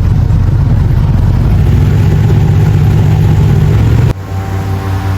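Airboat engine and propeller running loud and steady. About four seconds in the sound drops suddenly to a quieter, steadier hum.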